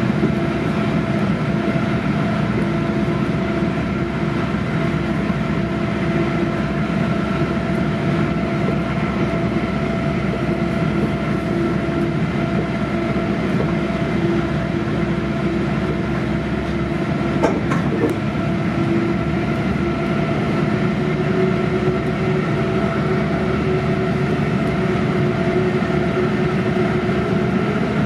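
Steady running noise inside a commuter rail passenger coach rolling at speed: a constant rumble with a steady hum, and one sharp click about seventeen seconds in.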